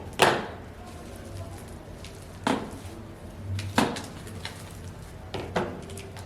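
Kitchen handling sounds as meat is portioned and wrapped: about five separate sharp knocks and clatters on the counter, the last two close together.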